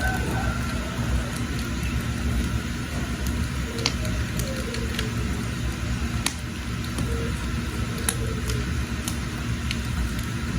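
Wood fire burning in a cooking hearth: a steady low rumble with sharp, irregular crackles and pops from the burning firewood.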